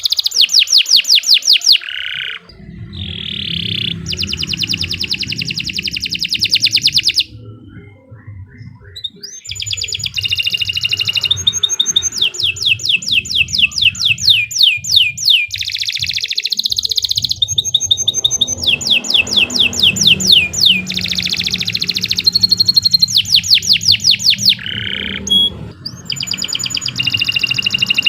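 Domestic canary singing a long song of fast trills, each a rapid run of repeated falling whistled notes, changing from one trill to the next, with a short break about a third of the way in. A low, steady hum runs underneath.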